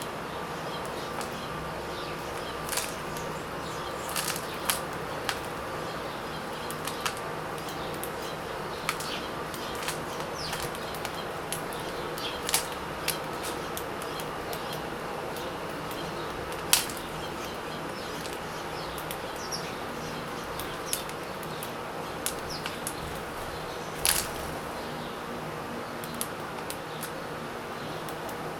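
Birds feeding: scattered sharp clicks and brief flutters at irregular intervals, the loudest about 17 seconds in, over a steady buzzing hum.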